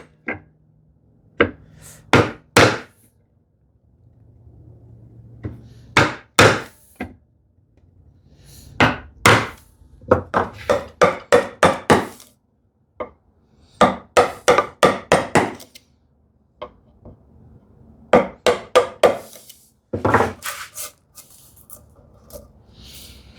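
Chisel being struck hard to chop out a housing dado across the grain of a wooden board, in bursts of several quick blows separated by short pauses.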